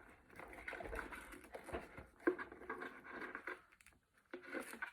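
Faint rustling and handling of plastic packaging as a small toy accessory is unwrapped, with irregular small clicks and one sharper click about two seconds in.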